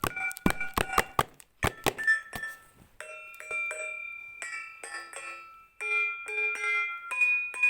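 A tuned percussion instrument played note by note, each struck note ringing briefly with a clear pitch. In the first two seconds the strikes are quick and sharp, then the playing turns to slower, softer notes that ring on.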